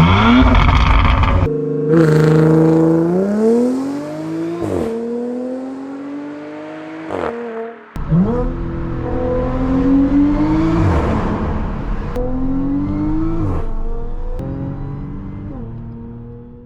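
Audi S4 supercharged V6 with an AWE Touring exhaust, revving and pulling hard several times over: the pitch climbs, drops back and climbs again. The sound cuts off suddenly twice and restarts.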